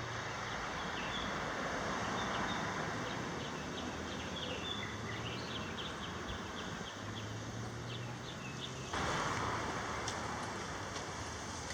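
Outdoor ambience: a steady rush of wind and distant noise, with small birds chirping in short calls through the first half. The level steps up suddenly about nine seconds in.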